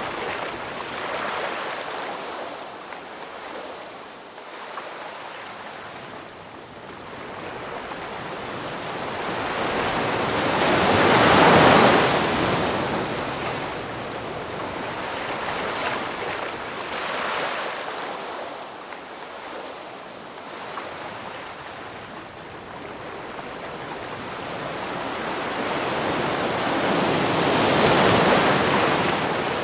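Ocean surf: waves breaking and washing up the shore, the rush of water swelling to a loud peak a little over a third of the way in and again near the end, easing back between.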